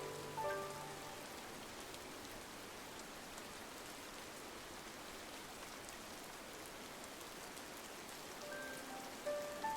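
Steady rain on a window, an even hiss. Soft music notes die away about a second in and come back near the end.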